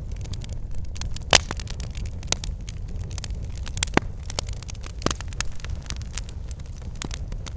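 Campfire crackling: irregular sharp pops and snaps of varying strength over a steady low rumble, with the loudest pop about a second and a half in.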